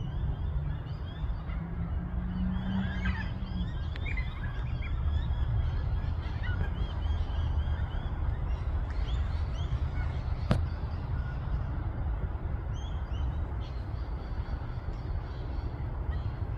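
Wild birds calling: many short chirps and calls over a steady low rumble, with a single sharp click about ten seconds in.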